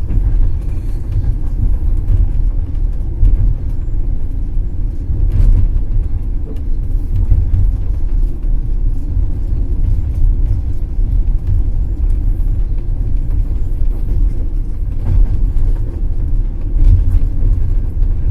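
Passenger train running at speed: a steady low rumble of wheels on the rails, with a few faint clicks about five seconds in and again around fifteen seconds.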